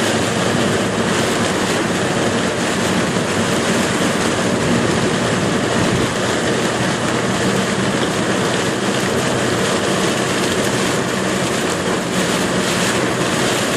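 Steady, loud noise of heavy rain and tyre spray on a flooded road, heard from inside a moving car's cabin.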